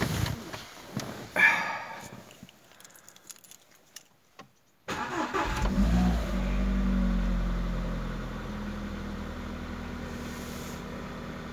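Rustling and a sharp bump, then about five seconds in a Škoda car's engine cranks briefly and catches. It runs up to a raised idle that eases down to a steady idle: a cold start in −20 °C frost.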